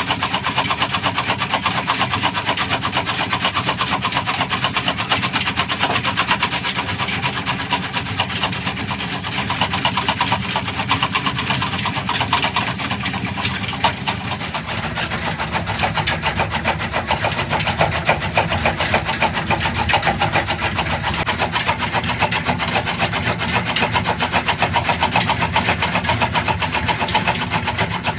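Single-cylinder 'Black Peter' (Petter-type) diesel engine running steadily, its firing strokes a fast, even beat.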